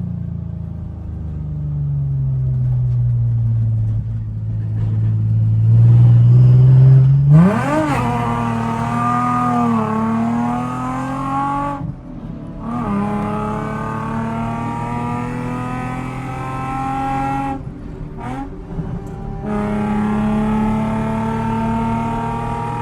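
Nissan 350Z's V6 engine under load, revving up and dropping back as it accelerates, with its pitch climbing steeply to the loudest point about seven seconds in. The sound breaks off sharply about three times between runs.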